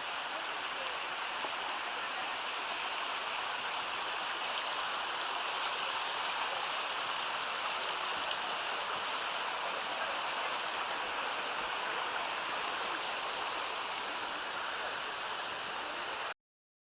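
Mountain creek rushing steadily over a cascade of small waterfalls, a constant noise of water that cuts off suddenly near the end.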